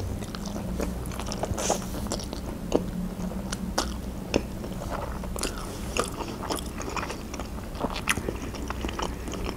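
Close-up eating sounds of a mouthful of soft green noodles being sucked in and chewed: many short, wet mouth clicks and smacks, irregular through the whole stretch.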